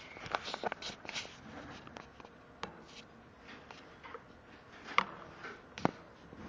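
Scattered light clicks and taps with a little rustling, like pet birds moving about and pecking in their cage; two sharper clicks come near the end.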